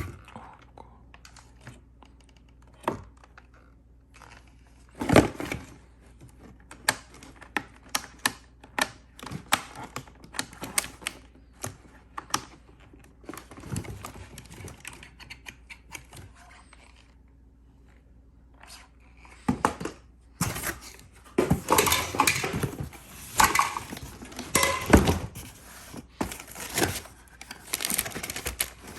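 Hands handling a new cordless vacuum's parts and packaging: irregular clicks, taps and knocks of hard plastic. They are sparse at first and grow denser and louder for the last third or so.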